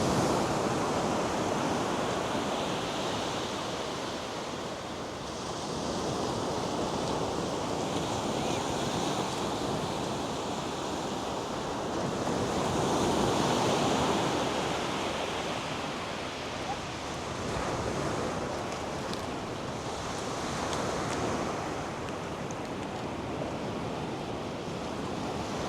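North Sea surf washing onto a sandy beach: a steady rush of breaking waves that swells and eases every few seconds.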